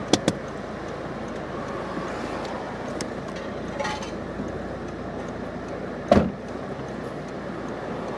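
Steady street and traffic noise, with two quick clicks near the start and a single heavy thump about six seconds in.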